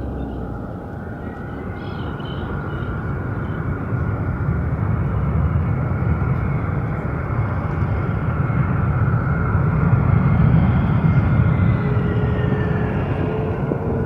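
Boeing 767 twin-engine jet airliner passing on its landing approach, the engine rumble growing louder to a peak about ten seconds in. A high whine slowly falls in pitch as it goes by.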